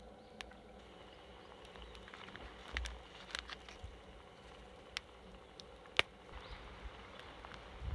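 Quiet outdoor camp ambience with a few scattered sharp clicks and light taps, the loudest about six seconds in.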